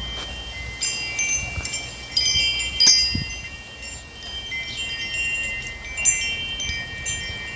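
Bright chime notes struck one after another, ringing on and overlapping, with a cluster of louder strikes about two to three seconds in and another near the end.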